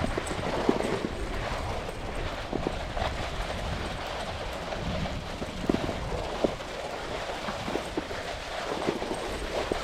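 A snowboard sliding over snow while two huskies tow it: a steady scraping hiss with low rumble, broken by irregular soft thuds of the dogs' running feet.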